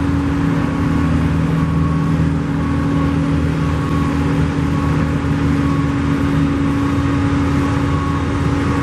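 Steady engine and road noise of a car being driven, with a constant low drone. Faint short high beeps repeat a little more often than once a second.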